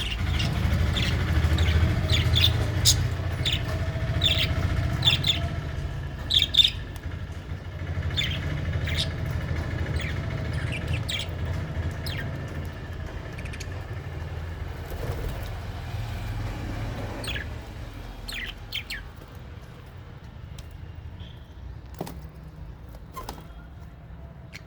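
Small aviary parrots, budgies and lovebirds, giving many short sharp chirps, thick in the first half and more scattered later, over a low rumble that fades away after about 18 seconds.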